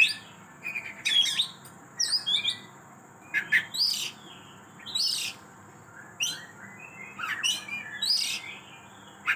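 Oriental magpie-robin (kacer) singing in loud, separate bursts of sharp, high, sweeping whistles and chirps, about one phrase a second, running through a varied repertoire of song material.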